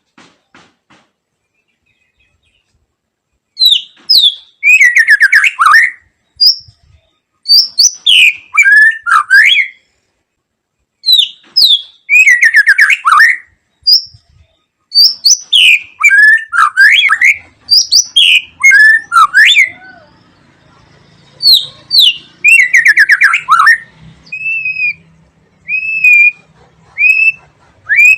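White-rumped shama singing: loud phrases of rich whistles and rapid sweeping notes, in bursts with short pauses between them, starting a few seconds in.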